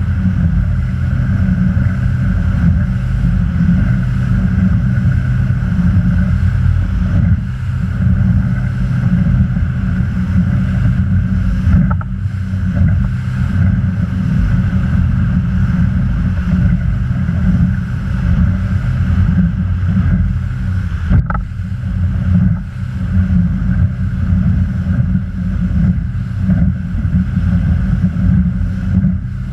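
Motorboat under way: the engine runs steadily under heavy wind rumble on the microphone, with water noise and two sharp knocks partway through.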